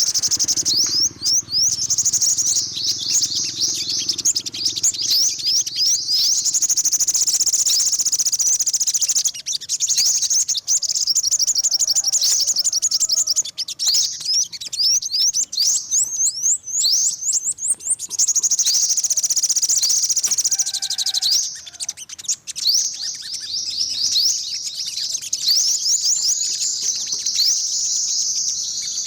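Yellow-bellied (olive-backed) sunbird singing: long runs of rapid, thin, high-pitched twittering notes, broken by a few short pauses.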